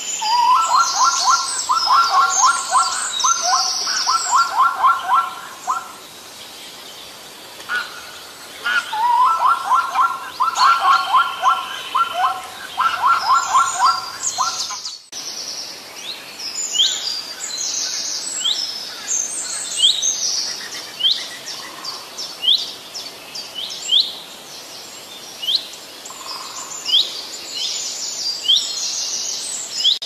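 Several birds singing: repeated fast trilled phrases and high chirps, then, after an abrupt cut about halfway, a run of short sweeping whistles about once a second.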